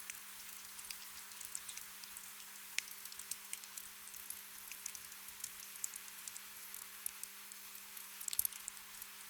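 Steady light rain, with individual drops ticking and pattering irregularly and a small cluster of louder drops about eight seconds in. A faint steady low hum runs underneath.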